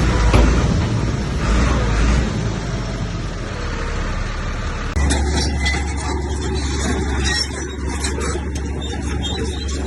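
Heavy diesel earthmoving machinery running with a deep rumble and clattering noise. About halfway through it changes abruptly to a steadier low drone.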